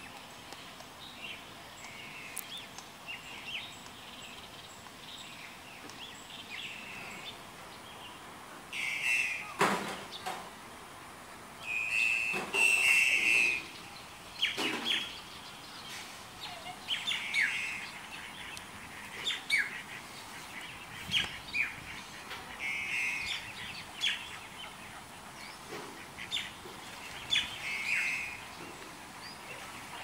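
Birds chirping and calling in many short, separate notes, with the loudest, harsher calls bunched about ten to fifteen seconds in.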